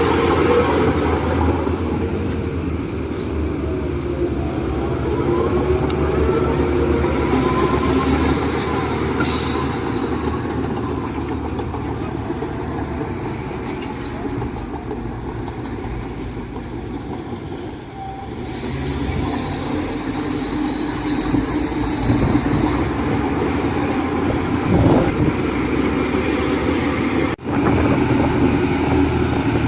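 Heavy diesel machinery running steadily, with wavering squeals over the engine noise. A short, sharp hiss comes about nine seconds in.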